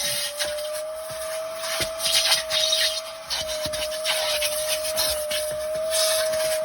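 Vacuum cleaner running with a steady high whine while its nozzle rubs and scrapes over the SUV's interior, the hiss of suction swelling and fading as it moves.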